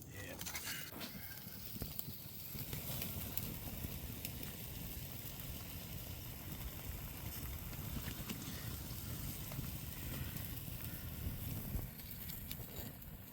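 Campfire burning with pots of food cooking over it: a steady low rumble with a few faint crackles near the start and near the end.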